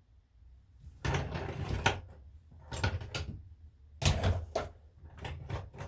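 Four short bursts of knocks, clatter and sharp clicks from hand tools at a car wheel, as the wheels are torqued.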